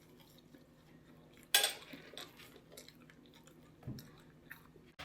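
A person eating at close range: quiet chewing, with one sharp click about a second and a half in, a few softer clicks after it and a duller knock near the end.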